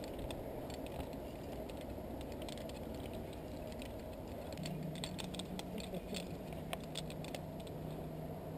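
Faint, irregular small clicks and light rustling over a steady low rumble, with a faint low hum joining about halfway through.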